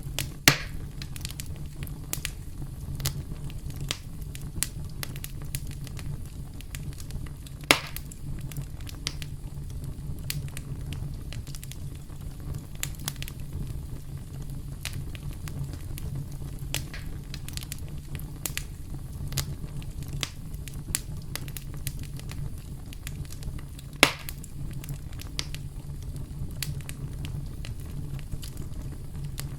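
Campfire crackling: a steady low rumble of burning wood with constant small snaps, and three sharper, louder pops spread through it.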